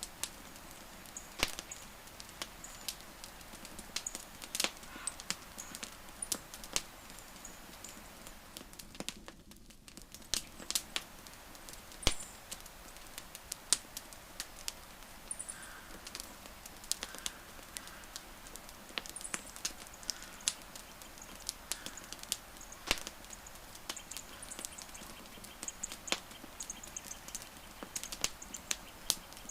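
Wood fire crackling, with frequent irregular sharp pops over a soft steady hiss. Faint short high-pitched chirps come and go in the background.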